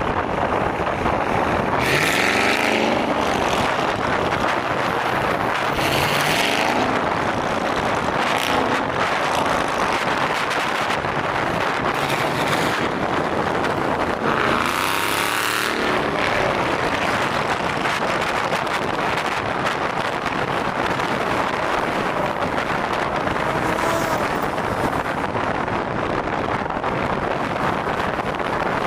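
Steady road and wind noise from a moving car, with other vehicles passing by three times, each a brief swell that falls in pitch.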